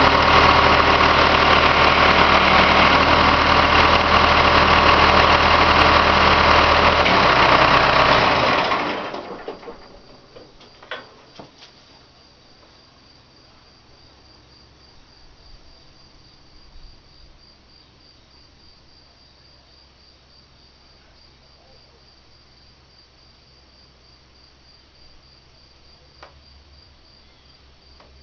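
An engine runs steadily, then winds down and stops about nine seconds in. Afterwards crickets chirp steadily and quietly, with a few faint knocks.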